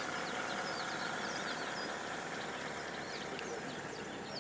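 Small birds chirping in quick, rapid succession over a steady low background hum.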